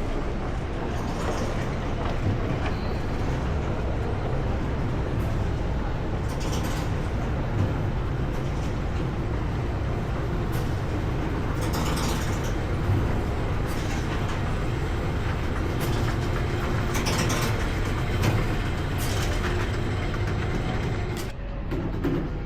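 Steady low rumble of a vehicle on the move, with scattered short rattles and knocks.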